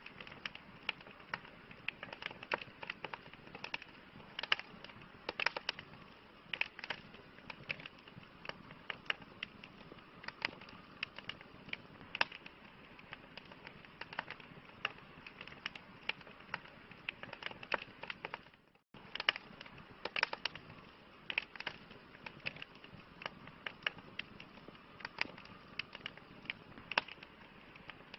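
Wood campfire burning steadily, with irregular sharp pops and crackles over a soft hiss of flame. The sound cuts out for a split second about two-thirds of the way in.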